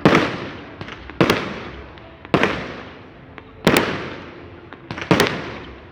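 Firecrackers going off one after another: five sharp, loud bangs about one to one and a half seconds apart, each dying away in an echo.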